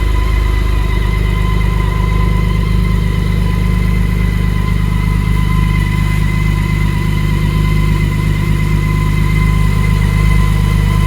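BMW K1600GT's inline six-cylinder engine idling steadily, freshly cold-started after about five months in winter storage.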